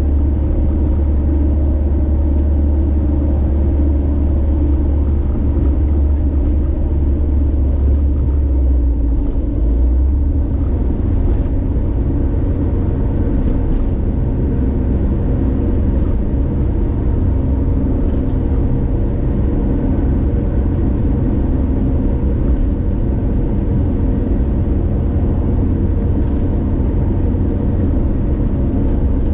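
Car driving along a highway: steady engine and road rumble, with the deepest rumble easing about ten seconds in.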